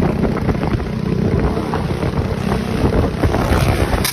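Loud wind buffeting on the microphone of a moving camera, with a vehicle running beneath it.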